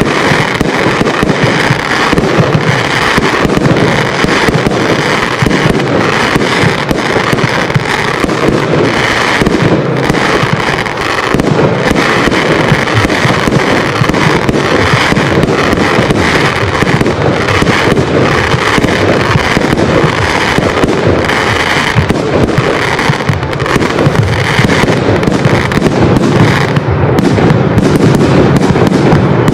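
Fireworks display: a dense, continuous barrage of aerial shell bursts and crackling, loud and without a pause.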